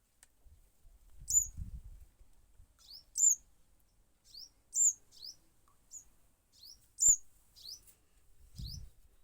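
A young fledgling bird calling: short, high chirps repeated one or two times a second, a few of them louder than the rest.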